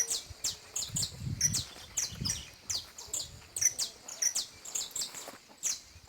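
Canary chirping in quick runs of short, high, downward-sweeping notes, several a second, with a low indistinct sound underneath in the first couple of seconds.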